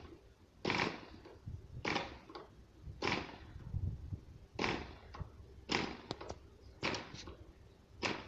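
FORA 2.5 model diesel engine being flipped over by hand by its propeller, about once a second, each flip a short burst of noise; the engine does not catch and run. The owner says its compression is poor.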